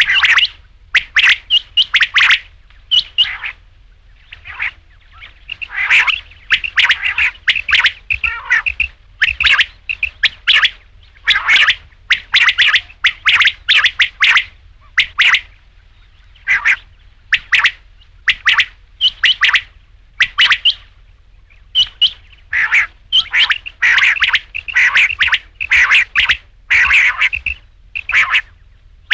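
Quail calling: short, sharp calls repeated in quick clusters, with brief pauses between bouts.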